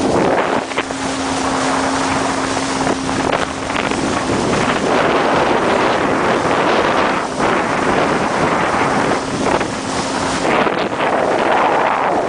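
Motorboat under way, its engine a steady hum beneath loud wind buffeting the microphone.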